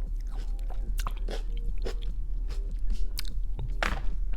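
Close-miked chewing of a ripe tomato: irregular wet smacks and soft crunches, the flesh mushy and juicy, over a steady low hum.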